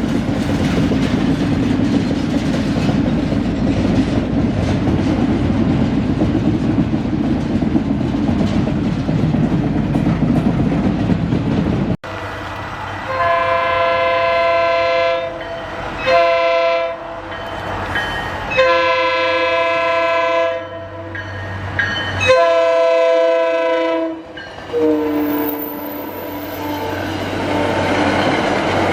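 A train rolling past with a steady rumble. After a cut about twelve seconds in, a locomotive's multi-chime air horn sounds four blasts: a long one, a short one, then two long ones. The horn tones drop in pitch near the end as it goes by.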